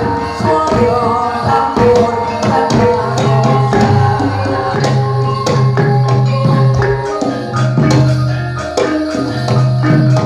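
Javanese gamelan music for a jathilan dance: hand-drum strokes over a steady pattern of struck bronze metallophone notes, with a deep sustained low tone underneath.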